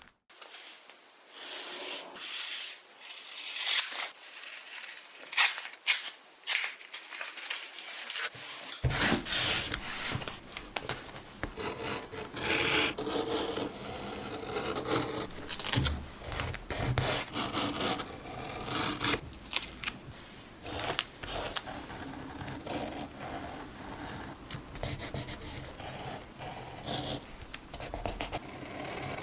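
Close-up paper-crafting sounds from journaling with tape: tape peeled and cut with scissors, and paper handled and rubbed down, as a run of irregular snips, scratches and taps.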